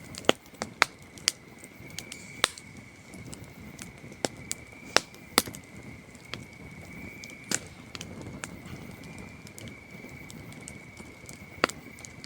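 Wood campfire crackling, with sharp irregular pops over a soft low rush of flame, under a steady high trill of crickets.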